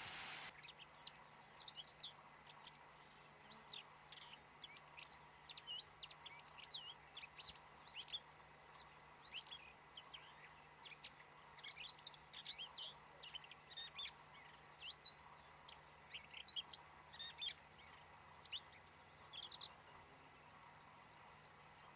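Small birds chirping and singing faintly, a quick, varied stream of short high notes that dies away near the end.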